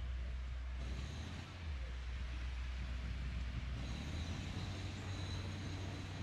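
Street traffic: a steady low vehicle engine rumble under an even hiss of road noise, with a faint thin high whine joining about a second in.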